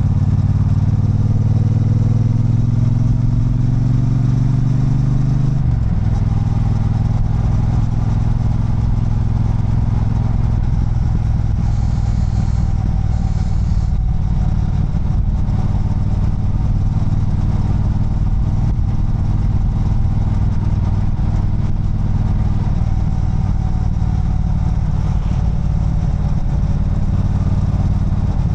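Triumph Bonneville Bobber's 1200 cc parallel-twin engine under way. Its revs climb for the first few seconds, then a gear change about six seconds in drops them, and it runs on at fairly steady revs.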